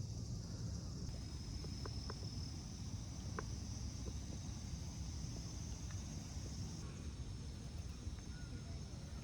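Outdoor ambience of insects chirring steadily at a high pitch over a low background rumble, with a few faint clicks about two to three seconds in.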